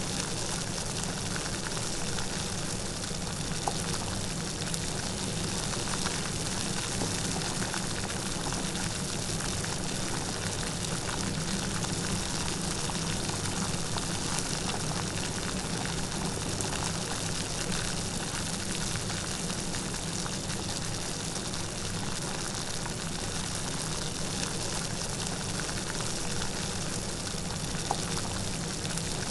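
Light rain falling steadily, an even hiss with faint patter of drops.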